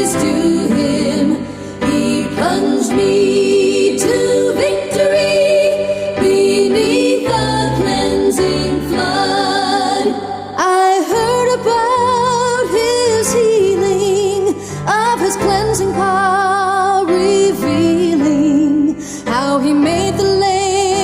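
A female voice singing a slow Christian worship song with vibrato over instrumental accompaniment.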